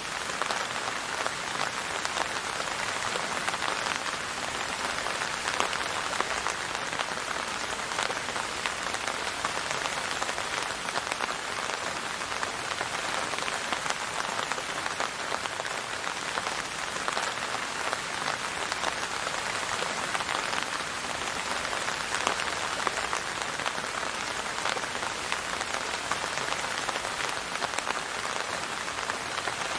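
Steady rain falling on a surface: a dense, even patter of drops with no letup.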